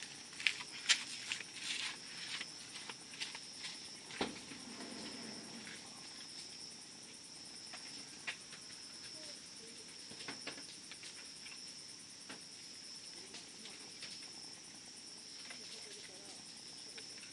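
Newly lit campfire crackling and popping, with a steady high insect trill behind it. The pops come thick in the first couple of seconds, then scattered, with one sharp pop about four seconds in.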